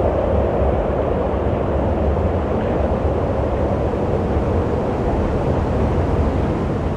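Wind blowing steadily: an even rushing noise with a strong low rumble underneath.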